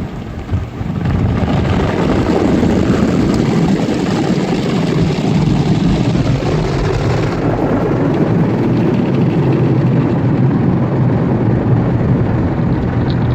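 Rotating brushes of a PDQ ProTouch Tandem automatic car wash working over the car, with water spray, heard from inside the car as a loud, steady rumbling whoosh. The higher hiss drops away about halfway through.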